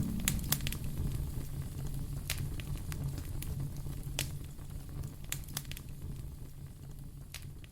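Wood fire crackling: scattered sharp pops over a steady low rumble, slowly fading.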